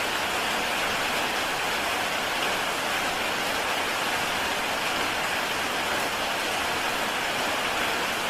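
Heavy rain falling steadily on a tile roof, a dense even hiss with no single drops standing out.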